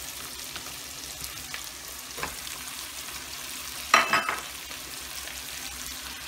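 Eggplant pieces sizzling in hot oil as they go into a pan of prawn and onion masala, with a steady frying hiss. A small knock comes about two seconds in and a louder short clatter about four seconds in as the last pieces are tipped in, followed by the start of stirring.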